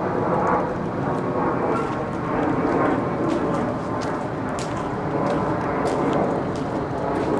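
Engine running steadily just after a cold start, with scattered short ticks over the rumble.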